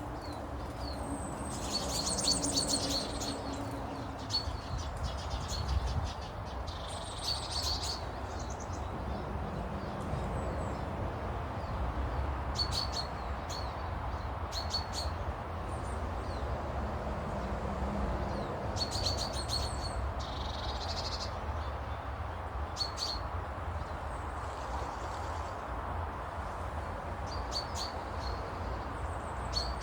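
Small birds chirping in short clusters of high, repeated notes every few seconds, over a steady low rumble.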